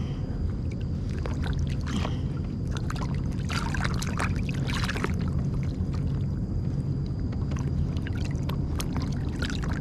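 Water rushing and splashing along the hull of a sailing kayak under way, over a steady low rumble, with a cluster of louder splashes about four to five seconds in.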